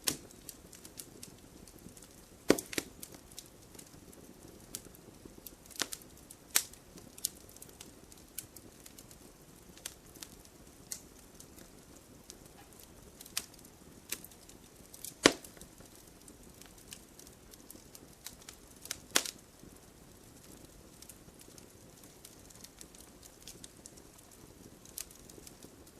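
Wood fire burning in a fireplace, crackling with irregular small snaps and a few louder sharp pops scattered through, over a soft low hiss of the flames.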